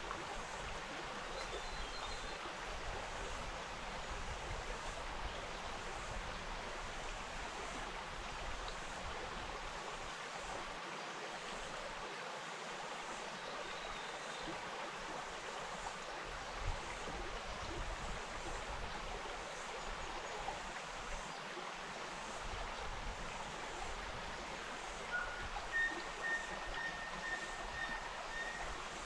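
The Wainuitewhara Stream, a bush stream, flowing steadily with an even rush of water. Near the end a faint, high, thin tone is held for a couple of seconds.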